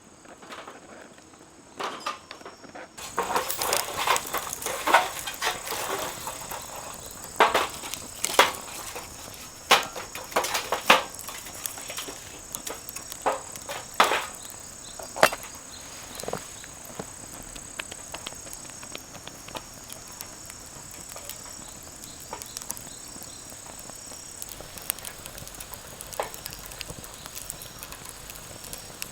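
Firewood crackling and popping as it burns, with dense sharp cracks about three seconds in that thin out to occasional pops, over a steady high insect trill.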